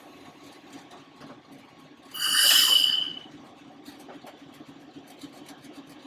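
Class 31 diesel-electric locomotive's English Electric V12 engine running steadily, heard from inside the cab. About two seconds in, a loud, high hissing blast sounds for about a second.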